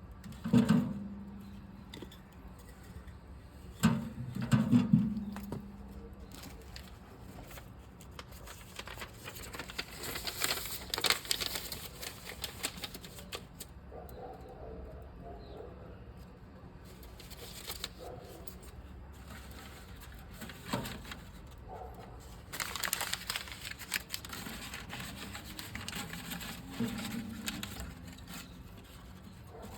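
Handling sounds: a sharp knock about half a second in and a cluster of knocks a few seconds later, then stretches of rustling and crinkling with a few more scattered knocks.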